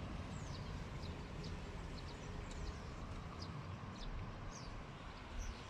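Small birds chirping: many short, high, quick falling notes scattered throughout, over a steady low rumble of outdoor background noise.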